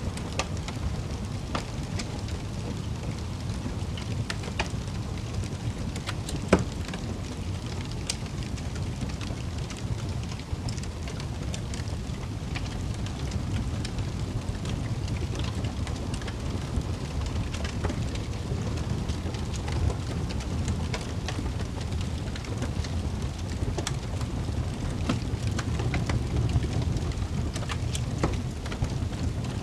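Wood fire crackling in a fireplace: a steady low rumble with scattered snaps and pops, one sharper pop about six and a half seconds in.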